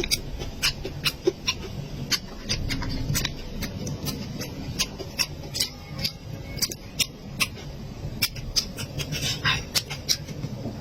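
A person chewing and eating close to the microphone, with irregular wet mouth clicks and smacks several times a second.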